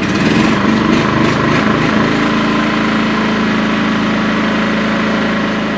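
Firman WH03242 dual-fuel inverter generator running on propane just after starting: its engine runs unevenly for about the first two seconds, then settles into a steady, even run.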